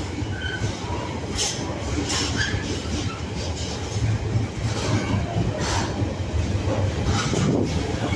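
Container wagons of a freight train rolling past close by, their wheels rumbling steadily with scattered sharp clanks and a few brief high wheel squeals.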